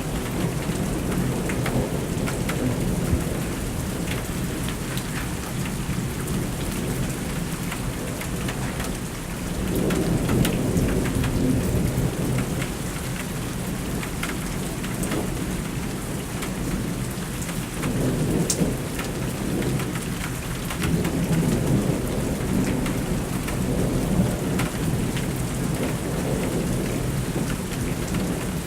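Thunderstorm: steady rain with rolling thunder rumbling low several times, swelling about ten seconds in and again in the last third.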